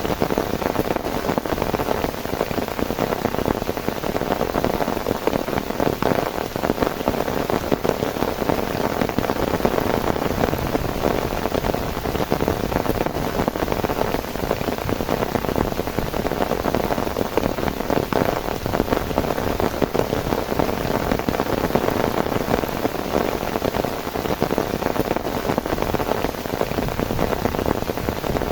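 Heavy rain falling steadily, a dense patter of drops that neither eases nor builds.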